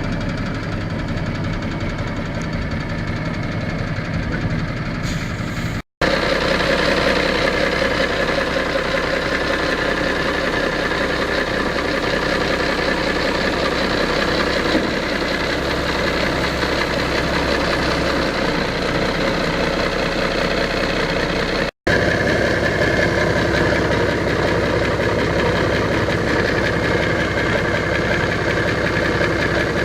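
Ford boom truck's engine running steadily at idle, in three stretches split by two abrupt cuts, a little louder after the first one.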